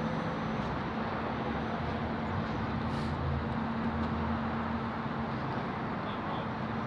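Steady outdoor background of vehicles idling: an even low hum over traffic noise, with no sudden events.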